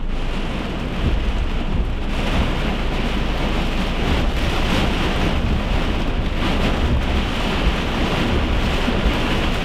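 Heavy rain and wind of a severe thunderstorm beating on a car, heard from inside as a steady rushing noise with a low rumble underneath.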